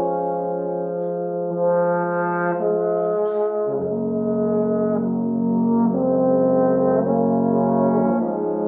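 Slow instrumental music of long held chords, with a brass-like or organ-like tone and a bass note that shifts as the chord changes twice.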